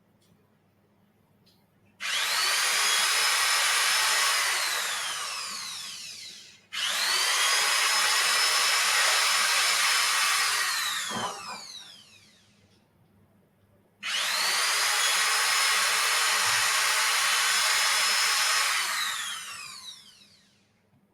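Small high-speed power tool drilling out a hole to enlarge it, run three times. Each run starts with a quick rise in pitch, holds a steady high whine for a few seconds, then winds down with a falling whine.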